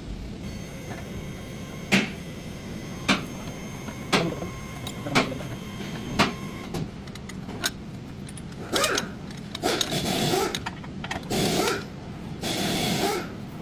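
Tool work on a car's steering during an inner tie rod replacement: five sharp strikes about a second apart, then several seconds of uneven, noisier working sounds.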